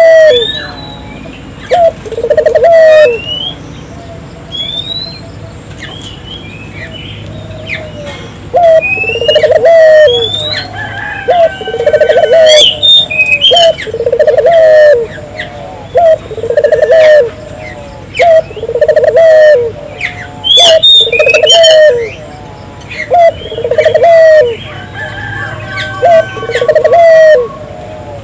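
Barbary dove (burung puter) in full song, cooing a short phrase over and over, about once every two seconds. Small birds chirp short rising whistles over the coos.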